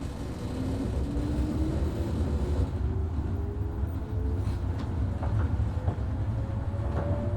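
JR 103 series 1500 subseries electric train running, with its traction motor and gear whine rising steadily in pitch over a low rumble as the train accelerates.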